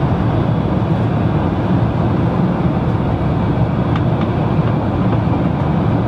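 Airliner cabin noise: a steady, even rumble of engines and rushing air inside the cabin.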